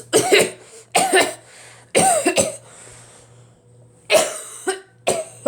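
A person coughing, five short coughs about a second apart, with a pause in the middle, over the faint steady hum of a running ceiling fan.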